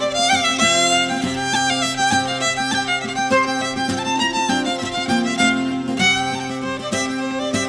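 Irish traditional fiddle playing a fast reel, the melody running in quick notes over steady sustained low tones.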